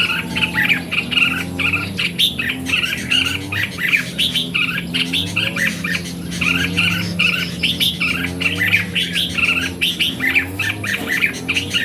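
Red-whiskered bulbuls singing, with quick, bubbly chirping phrases repeating and overlapping without pause, played as a lure to excite caged bulbuls. A steady low hum runs underneath.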